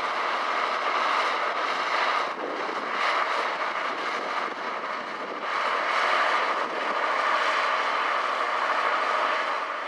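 Freight train of open box wagons rolling past at speed, a steady rushing noise of wheels on rail that dips briefly about two and a half and five seconds in.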